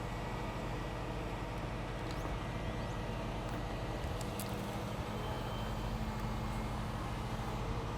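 Truck-mounted crane's engine running steadily as the boom is worked, a low, even hum; a second, higher steady tone joins about four seconds in, with a few faint clicks.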